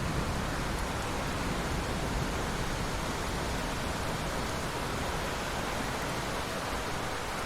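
Steady rain, an even hiss, with the low rumble of a thunder roll fading out right at the start.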